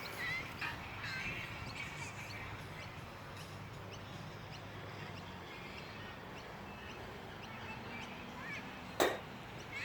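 Faint outdoor background with scattered short bird chirps, and a single sharp knock about nine seconds in.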